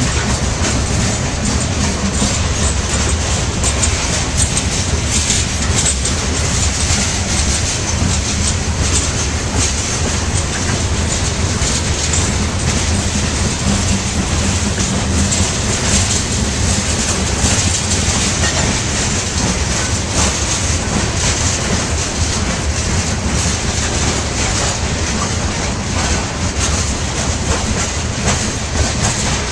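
Freight train cars rolling past, a steady loud rumble and rattle of steel wheels on the rails with repeated clicking of wheels over rail joints.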